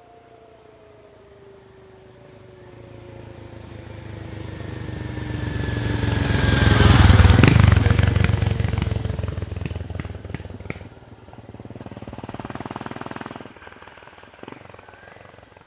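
1994 BMW F650 Funduro's single-cylinder engine running through a Hattech aftermarket exhaust as the motorcycle rides past. It grows louder over several seconds, is loudest about halfway through, then fades, and swells briefly again near the end.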